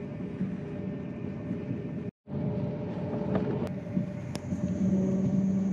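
Thalys high-speed train heard from inside the carriage: a steady running rumble, cut off completely for a moment a little after two seconds in. A few faint clicks follow, and a steady hum comes in near the end.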